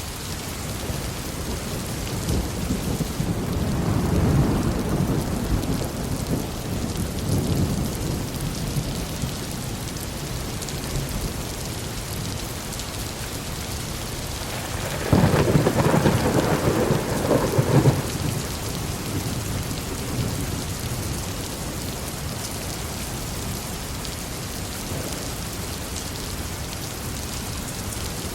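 Steady heavy rain with two rolls of thunder: a low rumble swelling and fading in the first several seconds, then a louder, sharper clap about halfway through that rumbles on for about three seconds.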